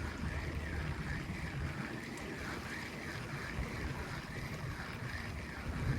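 Small fishing boat on the sea: a steady low rumble with water and wind noise, and a soft swishing that swells and fades about once a second.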